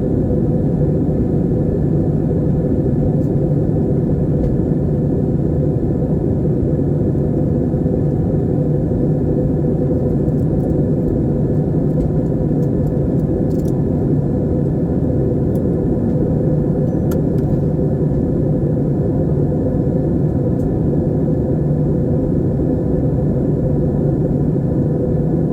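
Steady, even rumble of an airliner in flight, heard from inside the cabin: engine and airflow noise. A few faint clicks come about halfway through.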